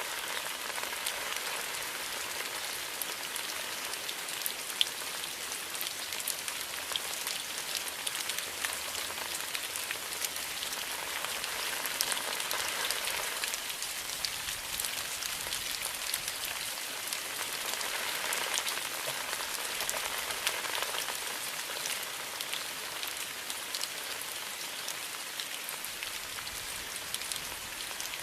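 Steady rain falling, an even hiss with many individual drops ticking close by and a few louder drops now and then.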